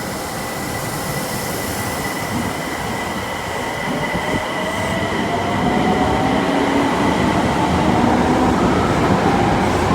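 Osaka Metro electric train pulling out of a station, its motor whine rising steadily in pitch as it accelerates, over wheel and running noise that grows louder.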